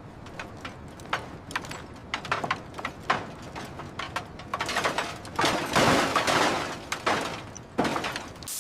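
Debris tipped into a container, clattering and scraping: a string of sharp knocks and clatters, with longer scraping rushes about five to seven seconds in.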